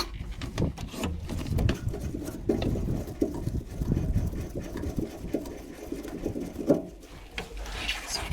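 Irregular clicking and knocking from hand work on a boat engine's fuel filter and water-separator assembly, over a low steady hum.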